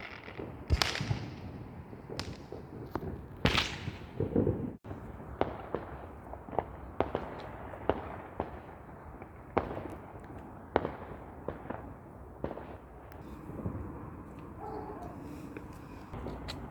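Fireworks going off: a string of sharp bangs and crackles, some close and loud, others fainter in the distance, the loudest about a second in and again about three and a half seconds in.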